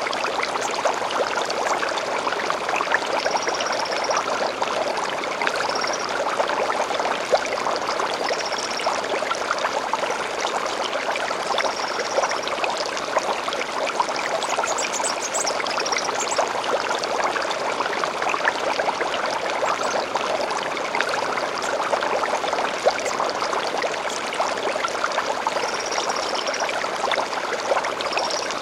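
A stream running steadily. Short, high bird calls come every few seconds, with a quicker flurry of notes about halfway through.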